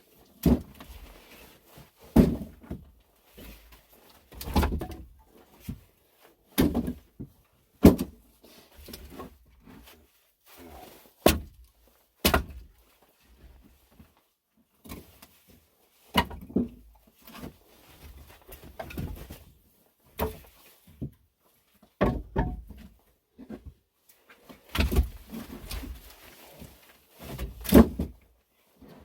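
Pieces of firewood being handled and dropped, a long series of separate wooden thunks spaced unevenly about a second or two apart.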